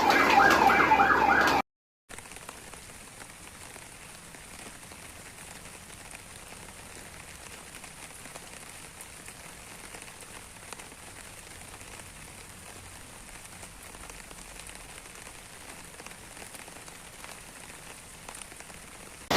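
Steady rain falling, an even hiss that runs on after a brief cut to silence. Before the cut, a loud, rapidly warbling sound stops abruptly about a second and a half in.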